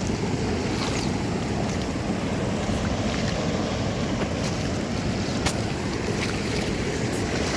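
Waterfall and creek rushing steadily, swollen to about twice its usual width by a night of heavy rain.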